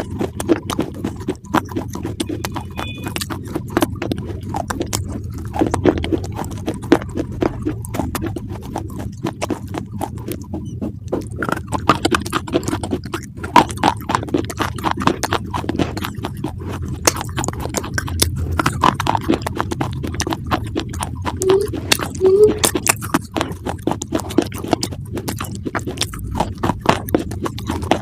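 Close, continuous crunchy chewing: many quick crackles and crunches without a break.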